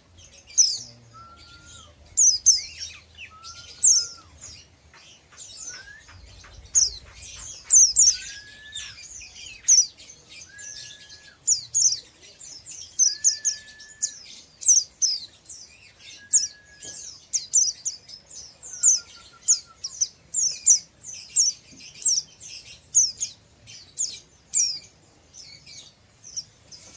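White-eye (pleci) singing in rapid twittering ngeriwik style: a dense run of sharp, high chirps, with a short lower whistled note coming in about every two seconds.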